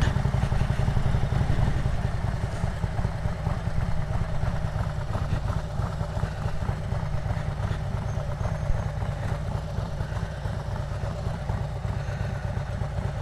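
Motorcycle being ridden, its engine running steadily under a continuous low rumble.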